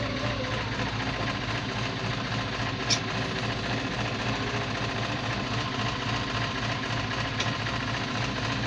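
Diesel engine of a JCB 3CX backhoe loader running steadily while it tows a stuck tractor out of the mud, with a sharp click about three seconds in.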